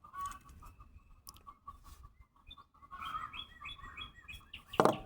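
Small birds chirping: a quick run of short, high chirps about three seconds in, and a louder short burst near the end.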